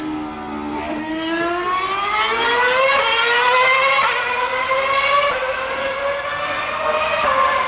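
A 2013 Formula 1 car's 2.4-litre V8 engine at high revs, its whine climbing in pitch over the first few seconds as the car accelerates, then holding high and steady.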